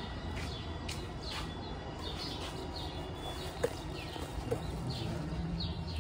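Small birds chirping, a scatter of short, high, downward-sweeping chirps, over a steady low hum.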